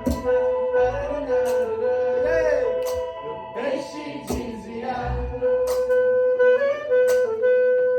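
Live band music: a long held melody line, sustained notes that bend between pitches, over sharp rhythmic hits about every second or so.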